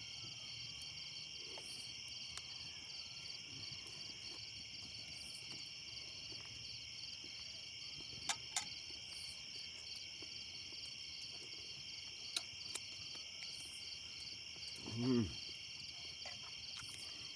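Steady, fast-pulsing chorus of crickets and other insects, with a few sharp clicks through the middle and a brief low hum from a person about fifteen seconds in.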